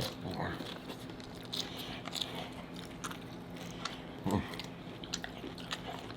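Close-up chewing and crunching of hard taco shells, with scattered short crunches as the shells break between the teeth.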